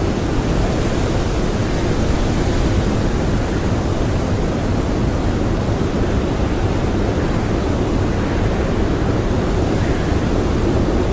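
Blizzard wind blowing hard and steadily, a dense rushing noise heaviest in the low end, with no distinct gusts or breaks.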